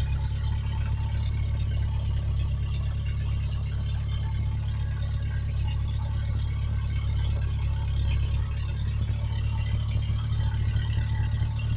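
1991 Ford Ranger pickup's engine running steadily with a constant low hum, no revving.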